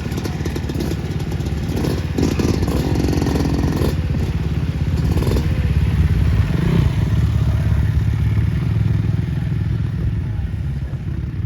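Dirt bike engines running on a motocross track, revving up and dropping back a few times as the bikes ride the course.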